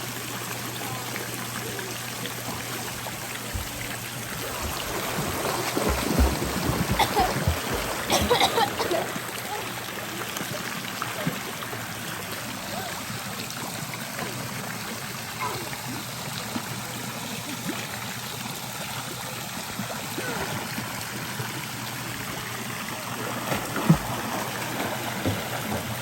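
Steady rush of running water, with a few faint voices and louder uneven sounds about five to nine seconds in.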